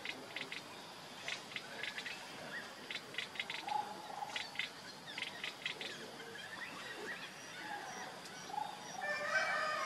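Birds calling in the surrounding forest: repeated runs of quick, sharp clicking chirps with a few short whistled notes between them, and a denser burst of varied calls near the end.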